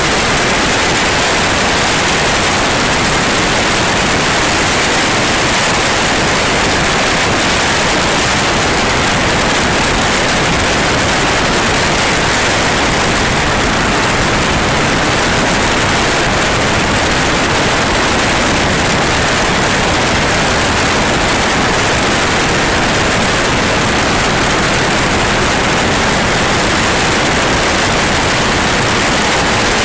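Steady, loud rushing noise of a light aircraft in flight, engine and airflow heard from inside the cabin, with no change in level.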